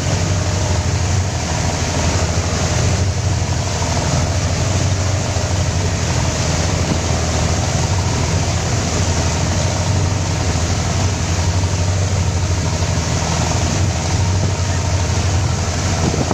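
Mitsubishi PS100 diesel engine of a motor boat running at a steady speed, with a deep, even hum and no change in revs.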